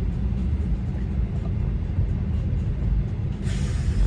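Steady low rumble of a car cabin in slow traffic, with a short hiss about three and a half seconds in.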